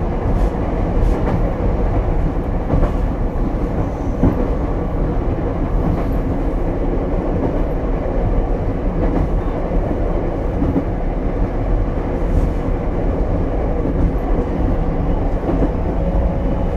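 Ichibata Electric Railway 7000-series car running at speed, a steady rumble heard from inside the passenger cabin, with a few faint clicks from the wheels.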